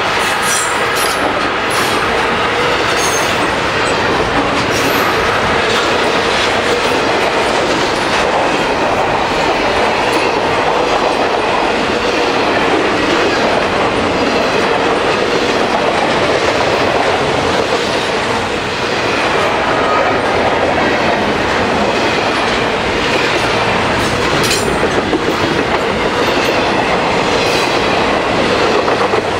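Double-stack container train's loaded well cars rolling past close by at about 48 mph: a loud, steady roar of steel wheels on rail, with scattered sharp clicks.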